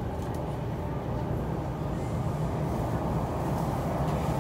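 MTR R-train electric multiple unit running between stations, heard from inside the passenger car: a steady rumble of wheels on rail and traction noise that grows slowly louder.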